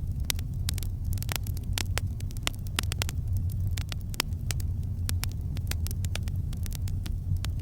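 Campfire crackling: frequent sharp pops and snaps at uneven intervals over a steady low rumble of the burning fire.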